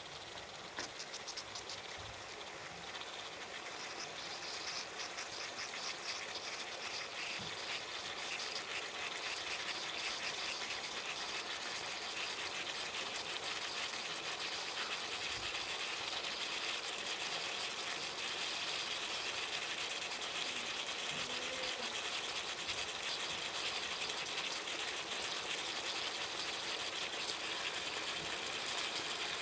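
Tagliatelle, chicken and vegetables sizzling in a hot wok: a steady crackling hiss that grows gradually louder over roughly the first ten seconds, then holds.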